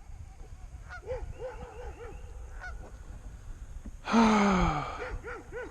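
Geese honking in a run of short, rising-and-falling calls. About four seconds in comes a louder, drawn-out sound that slides down in pitch, and then more honks.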